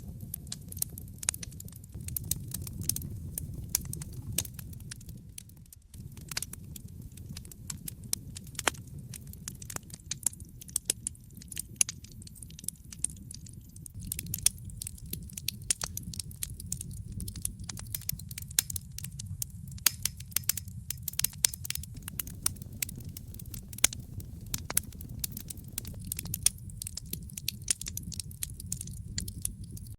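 Wood fire crackling, with frequent sharp pops and snaps of varying loudness over a steady low rumble of the flames. The rumble drops away briefly about six seconds in, then comes back.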